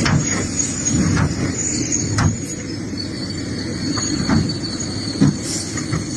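Excavator's diesel engine running steadily under load, with sharp knocks and clanks every second or so as the bucket works through rocky soil.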